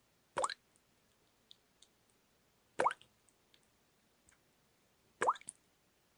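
Water dripping steadily: three drops land about two and a half seconds apart, each a short plop that rises quickly in pitch, with faint tiny ticks in between.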